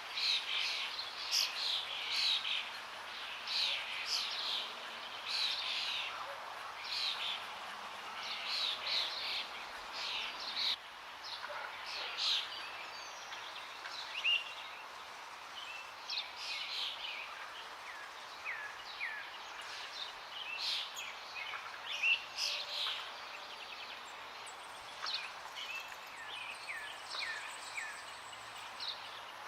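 Many songbirds chirping and calling over a steady rush of running water. The calls come thick in the first half and thin out later into scattered short whistles.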